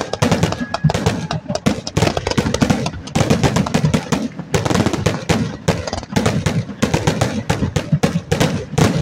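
Fireworks barrage: a fast, unbroken string of bangs and crackles, several a second, from a close-range display of fountains and shells.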